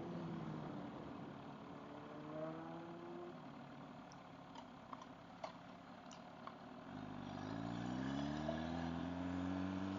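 MV Agusta F4 RR's inline-four engine, heard faintly, dropping in pitch as it eases off over the first few seconds. After a quieter stretch with a few light clicks, it rises in pitch as the bike accelerates about seven seconds in, then settles into a steady run.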